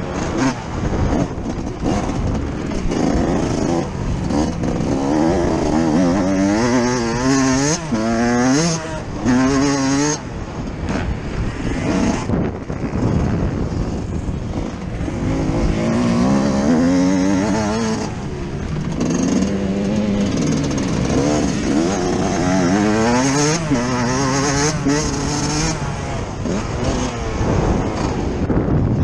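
Yamaha YZ125 two-stroke motocross engine heard on board while ridden hard. Its pitch climbs and drops again and again as the throttle is opened and closed through the gears.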